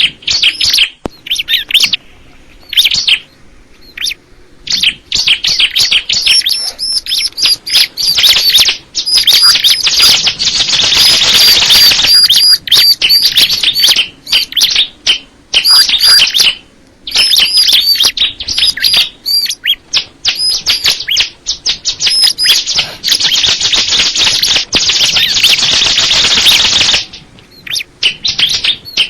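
Bar-winged prinia (ciblek) singing: a fast run of high, sharp, repeated chirping notes in short bursts. The song thickens into long unbroken loud stretches about nine seconds in and again about twenty-two seconds in.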